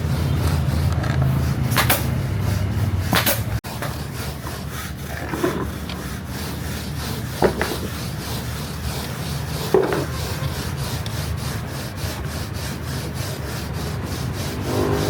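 Hand-tool scraping on a workpiece: first over a steady low hum with a couple of sharp strokes, which cuts off suddenly about three and a half seconds in, then an even run of rubbing strokes, about four a second, with a few louder ones.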